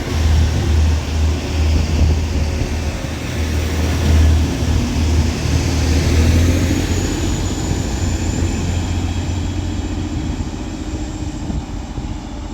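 Two coupled TransPennine Express class 185 diesel multiple units pulling away, their Cummins QSK19 diesel engines running under power with a heavy pulsing throb. A thin high whine comes in about six seconds in, and the sound eases off and fades toward the end as the train leaves.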